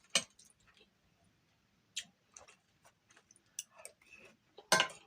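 Close-up eating sounds: scattered wet mouth clicks and smacks from chewing, a few sharp ones a second or two apart.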